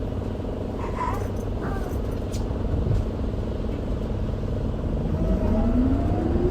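Isuzu Erga Mio bus (QDG-LV290N1) with its four-cylinder diesel engine running at a low, steady rumble. About five seconds in, the engine note starts rising and getting louder as the bus accelerates away.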